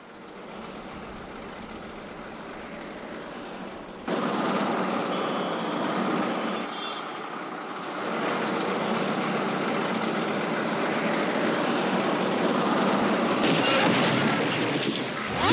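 Steady truck engine and road noise that jumps louder at a cut about four seconds in, with a couple of brief high tones around the middle.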